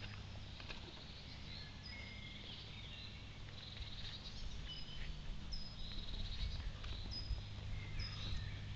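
Outdoor garden ambience: scattered short, high bird chirps over a steady low hum, with a few faint clicks.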